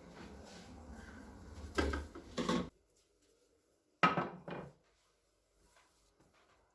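Kitchen handling knocks. Two knocks sound over a steady hiss that cuts off abruptly about three seconds in, then a sharp knock is followed quickly by a lighter one about four seconds in.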